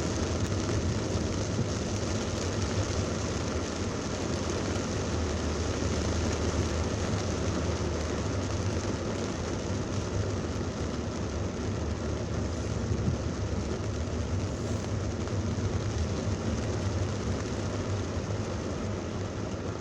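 Heavy thunderstorm downpour mixed with traffic road noise: a steady hiss of rain over a low rumble.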